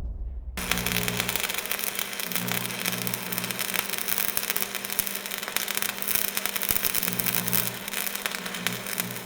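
Dense crackling static over a steady low electrical hum.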